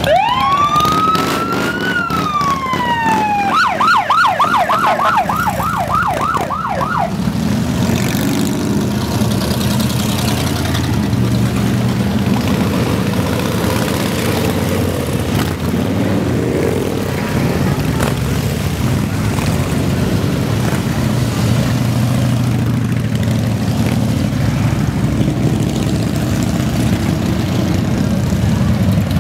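A siren wails up and slowly falls, then switches to a fast yelp and stops about seven seconds in. Underneath, a procession of Harley-Davidson motorcycles keeps up a steady low engine rumble.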